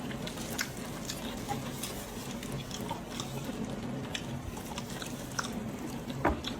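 Close-miked chewing of pig's head meat, with scattered short mouth clicks and smacks and one sharper click near the end.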